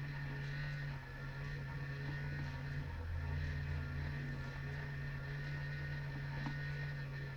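KATO H0-scale Alco RS-2 model diesel locomotive running: its small electric motor gives a steady hum that dips briefly a few times.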